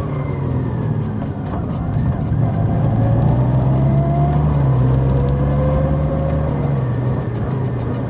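Large motorcycle's engine running steadily while riding, a constant low drone over a rush of road and wind noise, with a faint rising whine twice in the middle.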